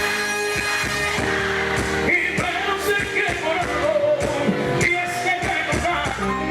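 Live cuarteto band music with singing over a steady dance beat.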